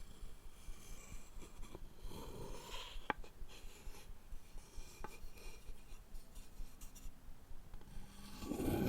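Wooden objects being rubbed and scraped, with a few scattered sharp clicks, the sharpest about three seconds in, and a louder scrape near the end.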